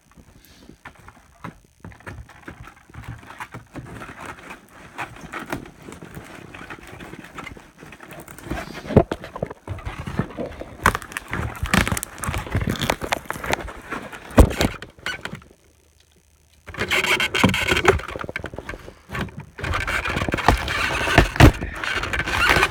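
A parcel being unpacked: a cardboard box and its packing material handled, with irregular rustling, scraping, crackling and knocks that grow busier about a third of the way through. The sound stops for about a second two-thirds through.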